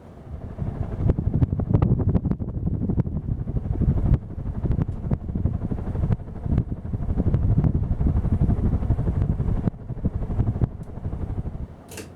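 Hunter Scandinavia ceiling fan running fast: an uneven, gusting low rumble, like the fan's downdraft buffeting the microphone, with scattered clicks from the blades' creaking and clattering. A sharp click comes near the end, and the rumble drops away with it.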